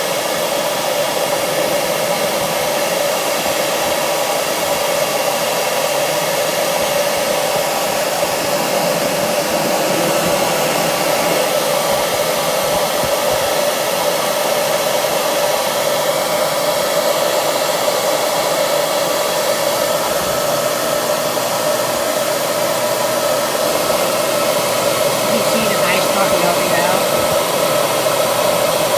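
Handheld hair dryer running steadily on a frozen-up refrigerator ice maker, a constant airy rush with a steady hum, melting the built-up ice.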